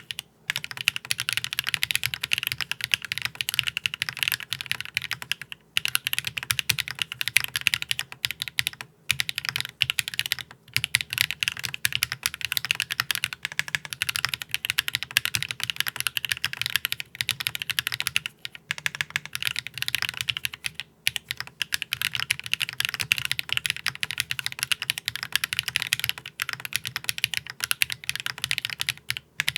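Fast, continuous typing on a custom top-mount mechanical keyboard with HMX Sunset Gleam linear switches on an aluminium plate with no foam, with lubed stabilizers and GMK keycaps. It makes a dense run of keystroke clacks broken by a few brief pauses.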